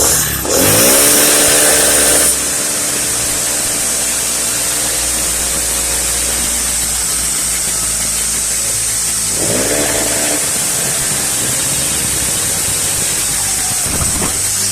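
Small single-cylinder four-stroke engine (Honda GXH50-type) revving up sharply twice, about half a second in and again near ten seconds in, over a steady rush of running noise.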